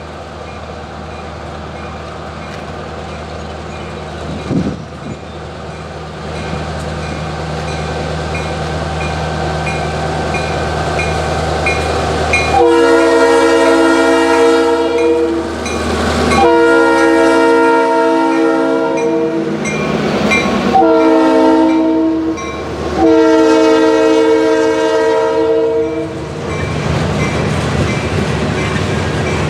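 A diesel freight locomotive approaching with its engine rumble growing louder, then sounding its multi-chime air horn in the grade-crossing pattern: two long blasts, a short one and a long one. A crossing bell dings steadily about twice a second underneath.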